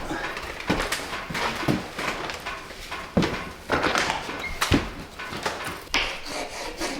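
Paintbrush strokes working paint into cracks between boards: irregular scrapes and light taps of the bristles against wood, a few each second.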